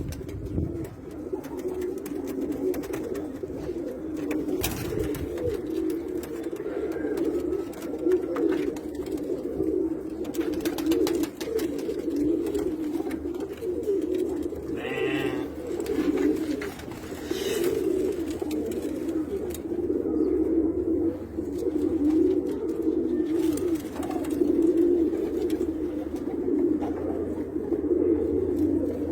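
A group of Pakistani-breed domestic pigeons cooing, many calls overlapping without a break, with a few brief sharp noises in between.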